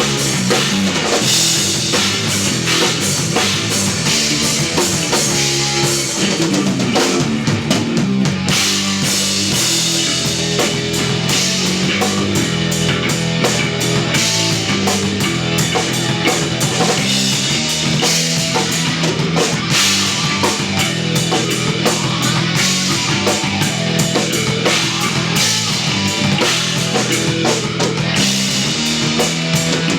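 Live instrumental rock from an electric bass, electric guitar and drum kit playing together, with a steady pulse of drum hits over sustained bass notes.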